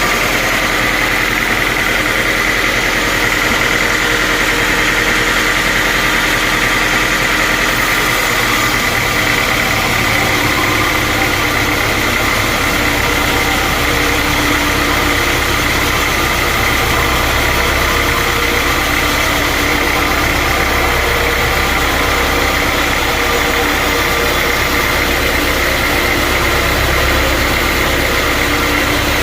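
Sawmill machinery running steadily: a loud, continuous mechanical drone with a high, steady whine, its low rumble growing stronger about ten seconds in.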